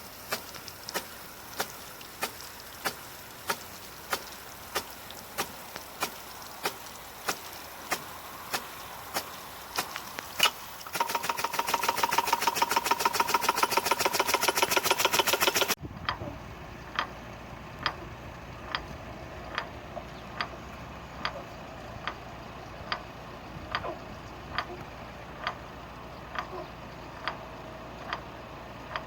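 Water-driven hose-reel irrigator ticking steadily, with sharp clicks a little over half a second apart. Partway through there are a few seconds of much faster, louder rapid-fire ticking, then the steady ticking resumes.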